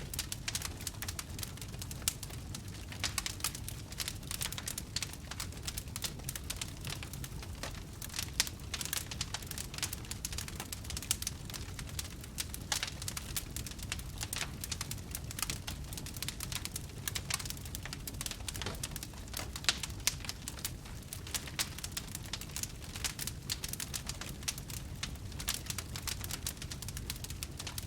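Wood fire crackling in a fireplace: frequent, irregular sharp pops and snaps over a steady low rumble of the burning wood.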